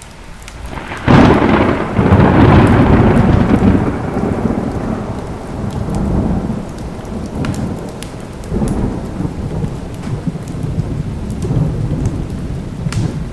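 Thunderclap about a second in, cracking sharply and then rumbling down over several seconds, with softer rolls of thunder later, over steady heavy rain.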